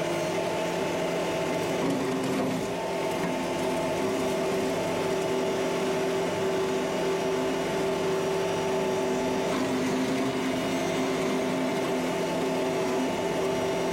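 Kubota MX5800 tractor's diesel engine and rotary brush cutter running steadily under load, a steady drone with several held tones. The audio is sped up to double speed, which raises its pitch.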